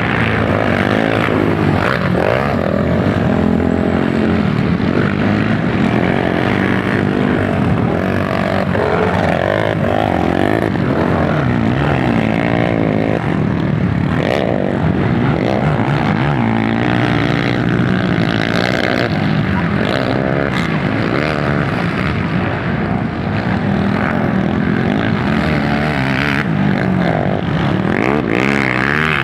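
Several motocross bike engines racing, overlapping and revving up and down continuously.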